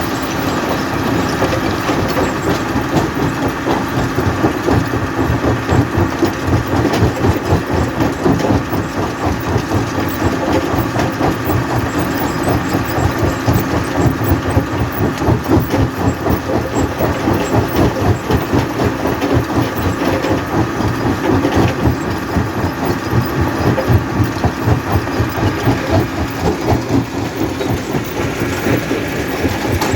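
Jaw rock crusher running and crushing stone: a loud, continuous mechanical clatter with a rapid, even pulsing.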